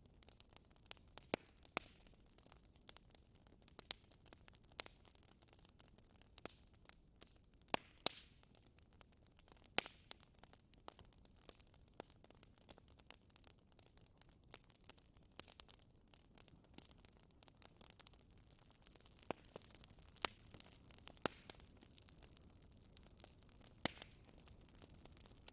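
Wood fire crackling in a fireplace: scattered sharp pops and snaps at irregular intervals over a faint steady hiss.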